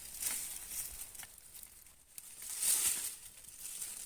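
Rustling and crunching of dry soil and vines being handled while digging up sweet potatoes, swelling twice: just after the start and again near three seconds in.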